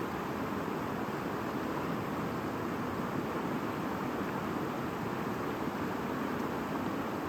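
A shallow stream babbling steadily over stones, an even rushing murmur with no birdsong standing out.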